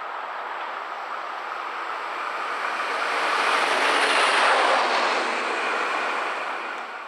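A train passing by: a rushing noise that swells to its loudest about four seconds in, then fades.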